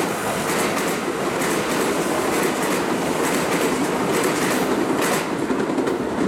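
Kintetsu limited express train running away over the station tracks, with a steady rolling rumble and repeated sharp clacks of its wheels crossing rail joints and points, several in quick pairs.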